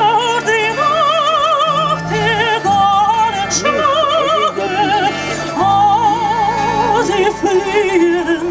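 Operatic-style singing with wide vibrato on long held notes, over sustained instrumental accompaniment.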